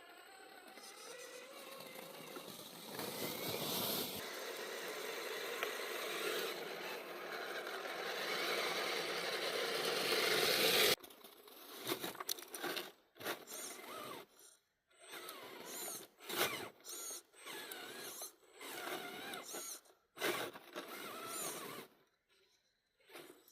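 Small electric motor and gear drive of a radio-controlled scale truck whirring, with scraping and rattling over the ground. It builds steadily, cuts off abruptly about eleven seconds in, then goes in short stop-start bursts.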